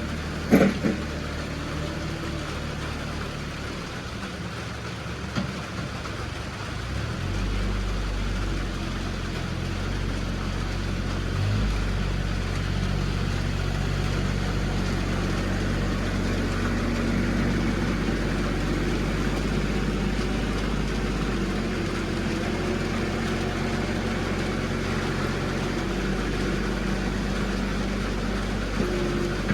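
Vehicle engine running steadily, with a sharp knock about half a second in. About seven seconds in, the engine note gets deeper and louder and holds there.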